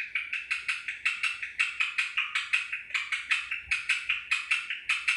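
Pet parrot mimicking a gecko's call: a long, even run of short, sharp chirping clicks, about five a second.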